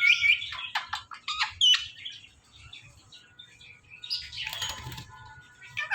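Indian ringneck parakeet calling: a quick run of short chirps and rising squeaky calls in the first two seconds, then a brief noisy rustle about four seconds in.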